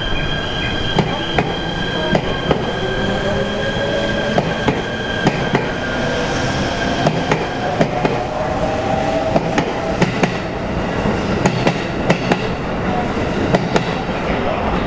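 JR East 253 series limited express electric train rolling slowly out past the platform. Its wheels squeal in several steady high tones, over rumbling rail noise and irregular sharp clicks of wheels over rail joints.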